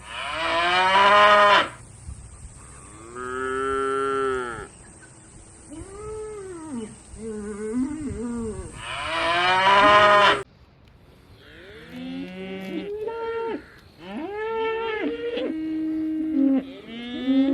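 Cows mooing: a series of long calls in the first ten seconds, then, after a cut, a different recording of shorter, varied calls.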